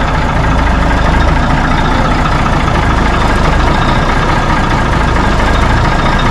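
Truck engine idling steadily, close and loud.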